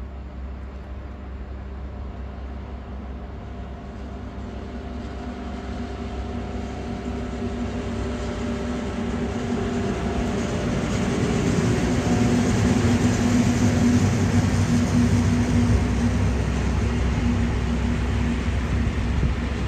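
A train approaching and passing on the main line, growing steadily louder to its loudest about two-thirds of the way in, then easing off slightly. Wheel rumble on the rails is joined by a steady hum of several tones.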